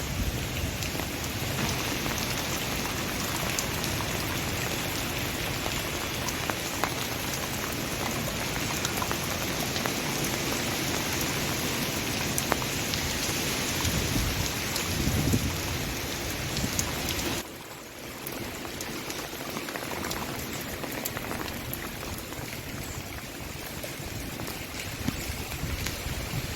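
Steady heavy rain falling, a dense patter of many small drops, with a brief low rumble near the middle. About two-thirds of the way through it suddenly drops to a softer rain.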